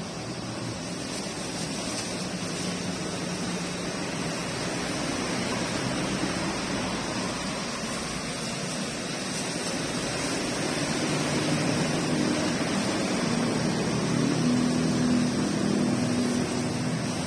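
Steady rain hiss with the low hum of a vehicle engine underneath, swelling in the second half.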